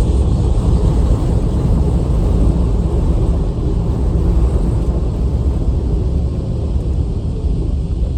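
Strong gusty wind from a passing typhoon buffeting the microphone: a loud, constant, rumbling rush that swells and eases with the gusts.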